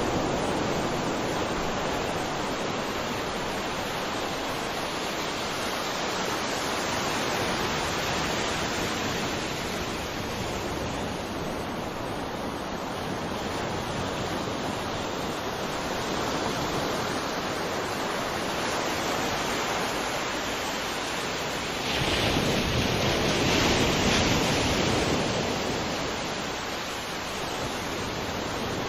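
Sea waves washing onto a shore in a steady rush, with a larger wave breaking about three quarters of the way through.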